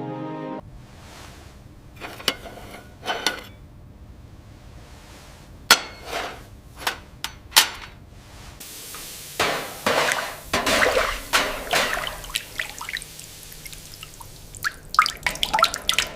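Water pouring and dripping, with a series of sharp clicks and clinks spread through it.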